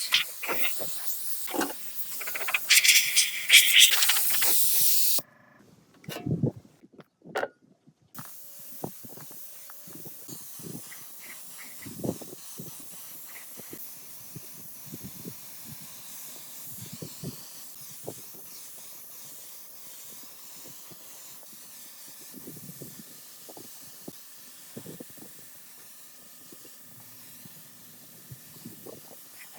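A loud spraying hiss, cut off abruptly about five seconds in. After a short near-silent gap comes a faint steady hiss with scattered small knocks and clicks, like parts being handled.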